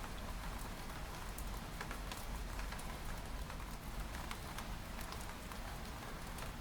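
Steady rain, with scattered single raindrops tapping against window glass over a low rumble.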